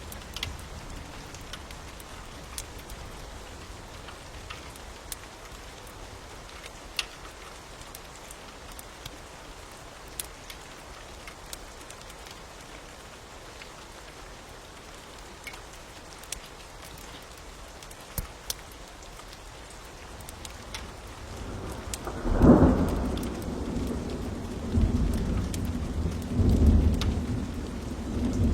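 Steady rain with scattered sharp crackles from a wood fire. About three quarters of the way through, a loud low roll of thunder breaks in and keeps rumbling to the end.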